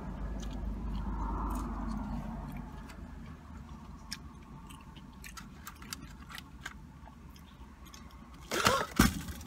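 A person chewing crispy fried fast food, breaded chicken strips and onion rings, with many small crunches and mouth clicks. A brief loud burst comes near the end.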